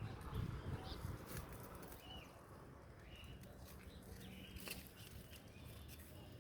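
Small birds chirping faintly, a few short calls a second or so apart, with a low rumble in the first couple of seconds.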